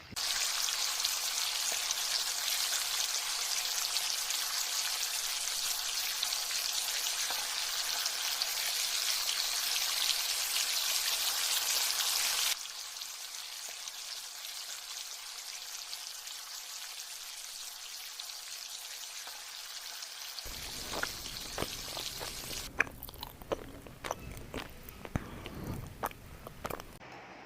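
Pork ribs sizzling on a hot grill pan, a steady hiss that drops abruptly to a quieter sizzle about halfway through. In the last several seconds, scattered clicks and knocks join the sizzle.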